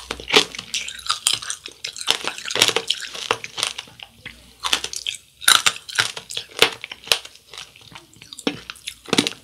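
Close-up crunching and chewing of a candied mandarin (tanghulu): the hard sugar glaze cracks and the juicy segments squish, in many sharp, irregular, wet crunches.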